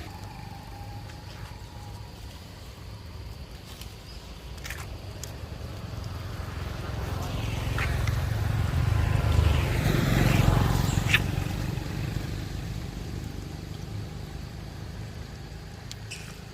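A motor vehicle passing by: a low engine rumble that grows louder to a peak about ten seconds in, then fades away.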